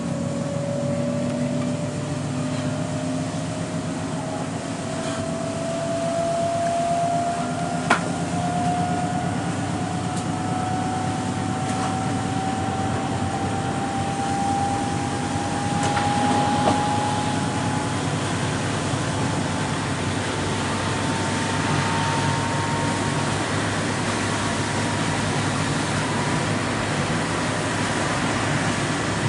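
Cabin noise of an electric S-train in motion: a steady running rumble with an electric motor whine that rises slowly in pitch as the train picks up speed. Two sharp clicks come through, about 8 and 16 seconds in.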